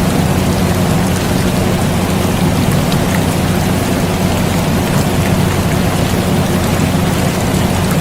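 Steady air conditioner hum mixed with rain falling in a constant patter. The level holds even throughout, with no change.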